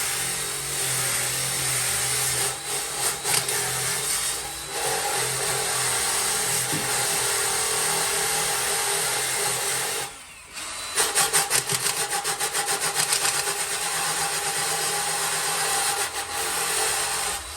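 Power sander running against rusty car body sheet metal, sanding off rust. It stops briefly about ten seconds in, then starts again.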